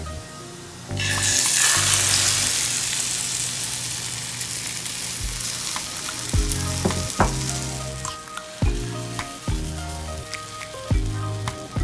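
Beaten egg and cheese omelette mixture poured into a hot frying pan over browned mushrooms, sizzling sharply from about a second in and slowly fading as it settles. Background music with a beat plays over it, stronger in the second half.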